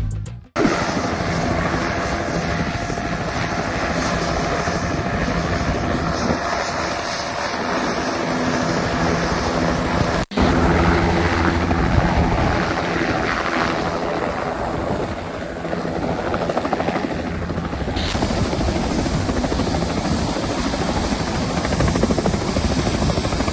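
Helicopter running, its rotor and turbine engine making a loud, steady noise with a low hum. The sound drops out for a moment about ten seconds in, and its higher part shifts near the end.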